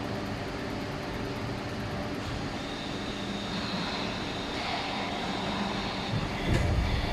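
Injection moulding machine running a 16-cavity bottle-preform mould, a steady hum and hiss, with a few heavier low thumps near the end.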